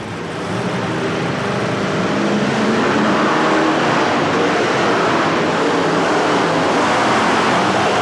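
Monster truck engine running at full throttle, building over the first two or three seconds and then held loud and steady.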